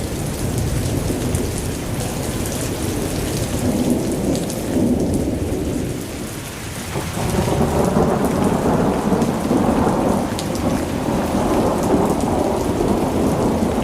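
Vacuum cleaner running with a continuous low rumble, growing louder about seven seconds in.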